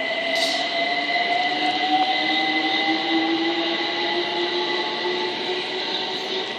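Class 378 electric multiple unit pulling away from the platform, its traction motors giving a whine that rises slowly and steadily in pitch as it accelerates, over the rumble of the train, with a steady high tone alongside.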